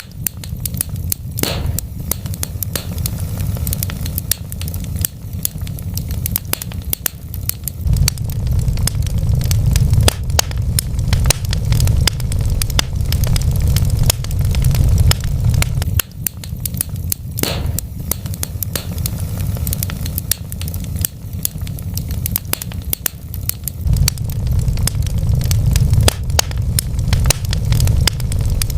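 Wood fire crackling in a fireplace: a constant scatter of small crackles over a steady low rumble, with a louder pop about a second and a half in and another about 17 seconds in.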